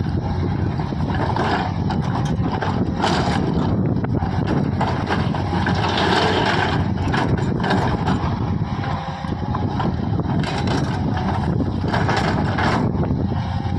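Diesel engine of a JCB 3DX backhoe loader running steadily as it works, rising in several louder spells.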